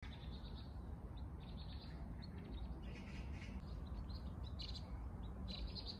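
Small birds chirping in many short, quick calls, over a low steady rumble.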